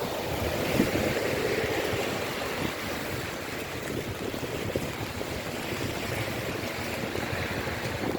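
Steady rain falling, an even hiss of drops without let-up.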